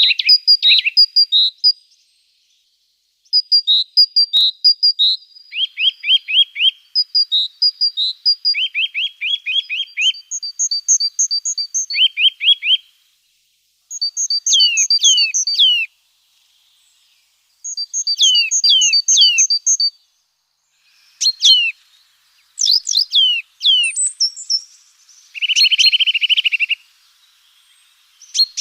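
Small songbirds singing and calling almost without pause. Phrases of quickly repeated high two-note figures alternate with short falling whistles, and near the end come lower buzzy trills.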